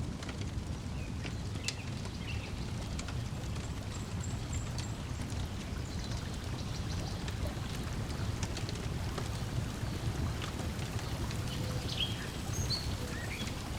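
Wood fire crackling with scattered sharp pops over a steady low wash of lake water lapping at the shore, with a few short bird chirps, more of them near the end.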